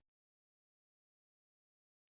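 Digital silence: a complete gap with no sound at all.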